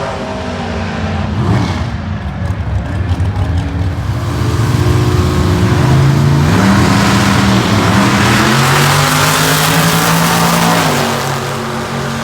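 Muscle car engine under hard acceleration, its pitch climbing in several steps as it pulls through the gears, loudest from about halfway in and easing near the end.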